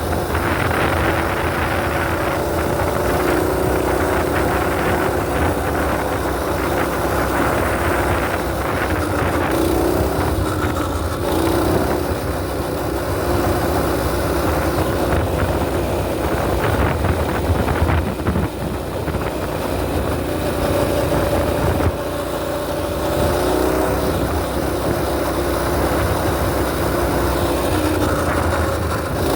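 Mini bike's small engine running under way, its pitch rising and falling as the throttle opens and eases off.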